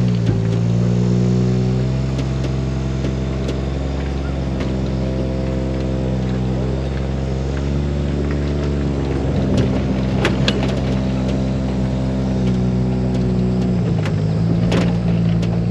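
Small outboard motor running under way, its pitch stepping up and down a few times as the throttle changes. A few short knocks about ten seconds in and again near the end.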